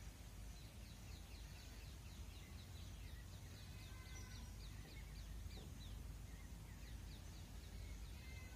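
Faint wild bird calls: a quick series of short, high, downward-sweeping chirps for the first few seconds and again later, with a few whistled notes, over a low steady rumble.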